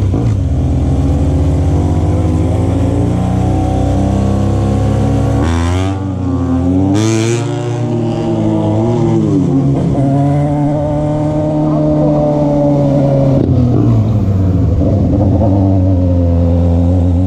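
Motorcycle engine running as the bike is ridden, its pitch rising and falling as the throttle is opened and closed, with two short hissy bursts about six and seven seconds in.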